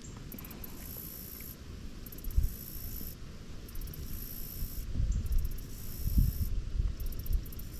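Wind buffeting the microphone in irregular gusts, a low rumble that grows stronger about five seconds in.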